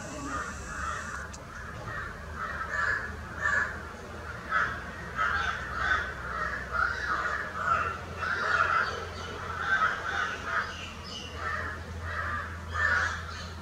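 Birds calling over and over, harsh calls coming about twice a second, with a steady low hum underneath.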